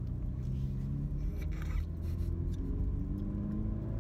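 Turbocharged 2.0-litre four-cylinder engine of a manual 2016 Camaro, heard from inside the cabin, pulling in gear with its note rising slowly as the revs climb.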